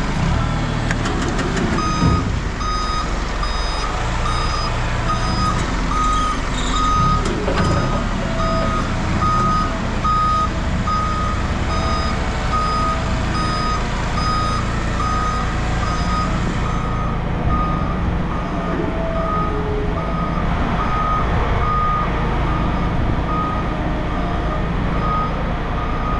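Reversing alarm of heavy machinery beeping steadily, about one beep a second, over the running of a diesel engine, with a couple of brief metal knocks early on.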